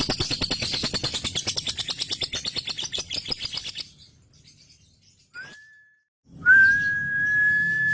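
Male lovebird singing its long 'ngekek' chatter, a rapid string of fast repeated notes that fades out about four seconds in. After a short pause comes a brief whistle, then a long, steady, high whistled note held to the end.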